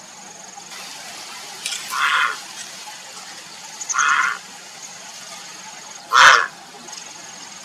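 Grey heron giving three short, rough calls about two seconds apart, the last the loudest.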